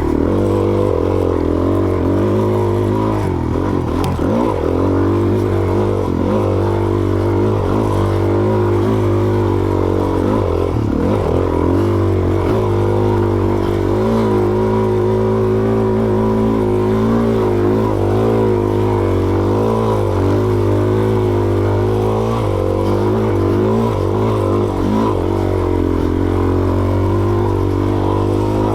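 Suzuki DR-Z400S dual-sport motorcycle's single-cylinder four-stroke engine running under way, its pitch rising and falling with the throttle.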